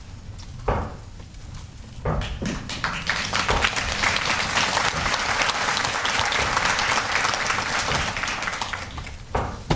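Audience applauding in a hall, building up about two seconds in, holding steady, then thinning near the end.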